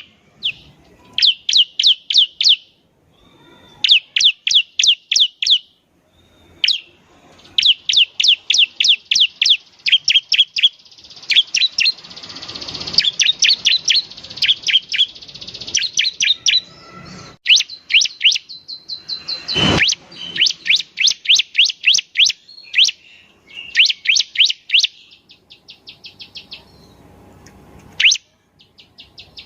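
Bar-winged prinia (ciblek) singing in fast runs of sharp, high repeated chirps, about five a second, in bursts of a second or two. There is a denser trill in the middle and one loud sweeping note about two-thirds of the way through.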